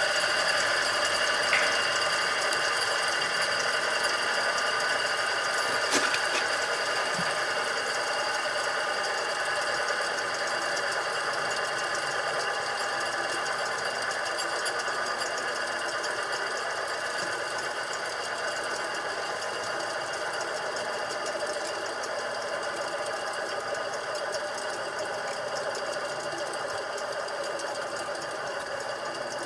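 Immersion-tube burner running with a steady mechanical noise and several high whining tones: the abnormal noise (異音) the burner is making. A single sharp click about six seconds in.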